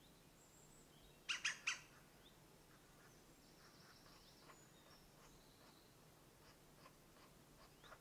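Three loud, sharp bird call notes in quick succession about a second and a half in, over faint scattered woodland bird chirps and thin whistles.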